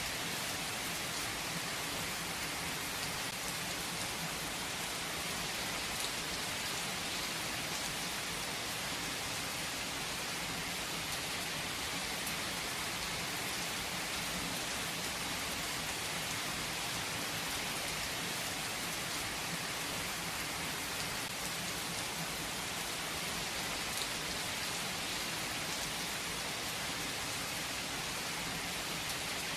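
Steady rain falling, an even hiss with faint drop ticks scattered through it.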